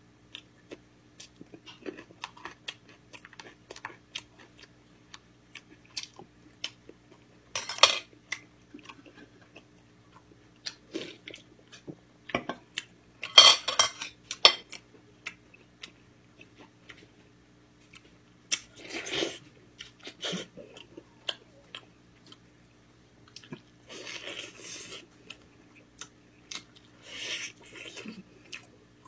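Close-up eating sounds: chewing, with many small wet mouth clicks and several louder noisy bursts of eating. A faint steady low hum runs underneath.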